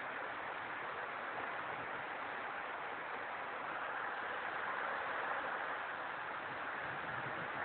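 Heavy rain pouring down steadily, swelling slightly about halfway through.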